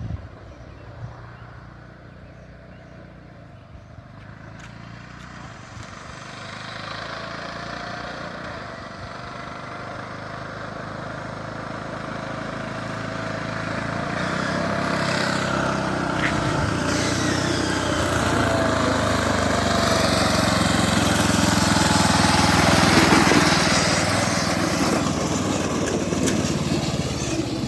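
A small petrol engine on a riding machine running and coming closer. It grows steadily louder, its pitch rising and falling as the throttle changes, and is loudest near the end.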